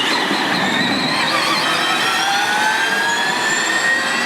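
Formula E electric race car at speed: a high-pitched electric motor and gearbox whine, several tones together, that rises slowly and steadily in pitch as the car accelerates, over a steady rushing noise.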